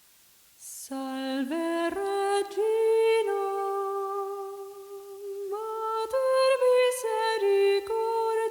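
A voice humming a slow, wordless melody, each note held for a second or more before stepping to the next.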